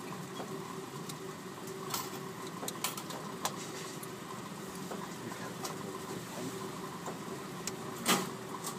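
Car engine idling steadily, heard from inside the cabin, with a few light clicks and a sharper knock about eight seconds in.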